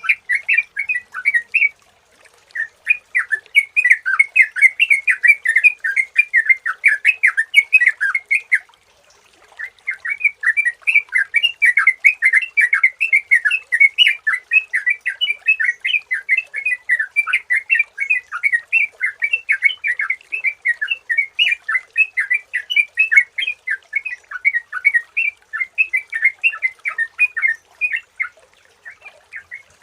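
Yellow-vented bulbul (trucukan) singing: fast, bubbly chattering phrases, almost without a break. It pauses briefly about two seconds in and again around nine seconds.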